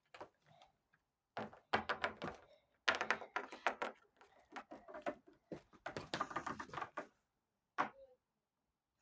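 Rapid clicking and tapping of small plastic toy figures being handled and set down on a plastic playset, in several quick flurries.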